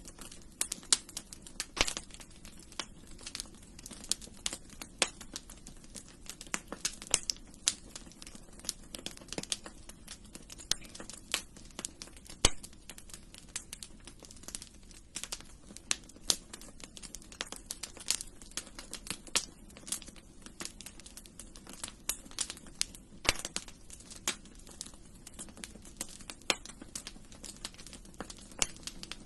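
Wood fire crackling in a fireplace: irregular sharp pops and snaps over a low, steady rush of the flames.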